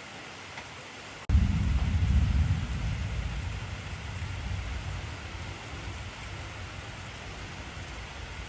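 Steady heavy rain hissing, with a low thunder rumble that starts suddenly about a second in, is loudest for a second or so, then slowly fades away under the rain.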